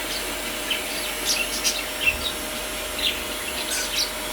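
Rosy Bourke's parakeets giving short, high chirps, scattered irregularly over a steady background hiss.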